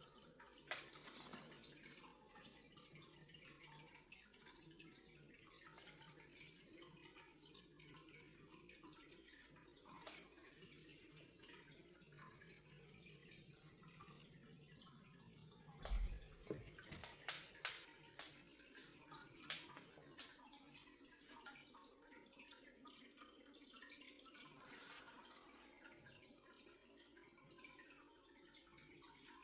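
Near silence: faint room tone, with a handful of light clicks and taps and a soft low thump about halfway through.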